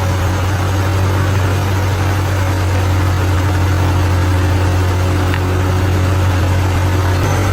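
Bulldozer's diesel engine running steadily with a strong low hum, holding an even speed without revving.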